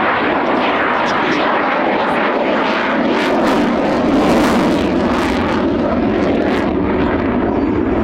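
Eurofighter Typhoon jet fighter's twin EJ200 turbofan engines: steady, loud jet noise that swells to its loudest about halfway through.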